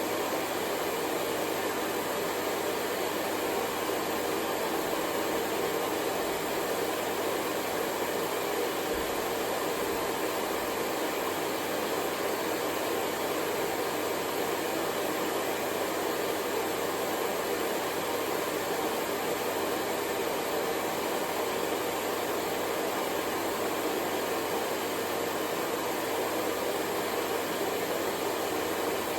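Hair dryer blowing, a steady unbroken whooshing hiss with a faint whine, used as white noise to soothe a baby to sleep.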